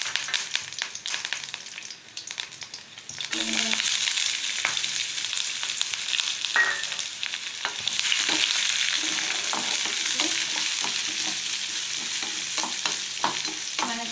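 Sliced onions, green chillies and mustard seeds frying in hot oil in a pan: a sizzle with small crackles at first, turning louder and fuller about three seconds in. In the second half a wooden spatula stirs the onions, with light knocks and scrapes against the pan.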